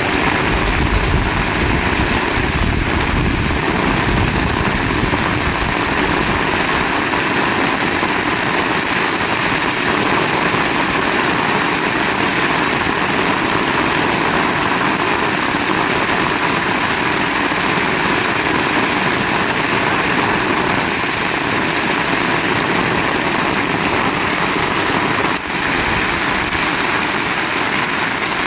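Heavy rain falling, a steady, dense hiss, with a low rumble in the first few seconds.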